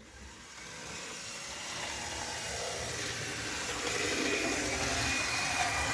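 PIKO model electric locomotive running on the track, its small motor and wheels making a steady running noise that grows steadily louder as it comes closer. The owner judges that it runs well.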